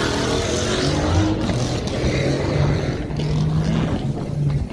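Car engine running, a low steady drone that shifts a little in pitch.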